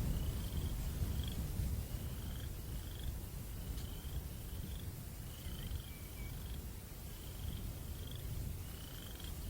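Low, rumbling wind noise with a steady series of short, high, rising chirps, repeating about once or twice a second, from a calling night creature.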